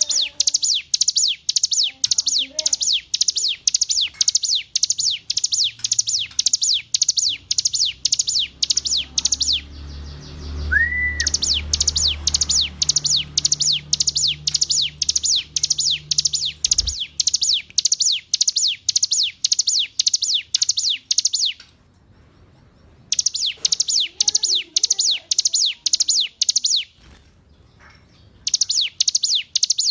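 Ciblek gunung (a prinia) singing: a long, fast, even run of sharp chirps, each sweeping down in pitch, about two to three a second. The run breaks off a few times for a second or two before starting again.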